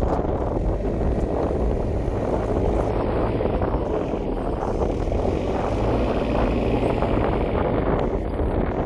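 Diesel engine of farm machinery running steadily, with wind on the microphone.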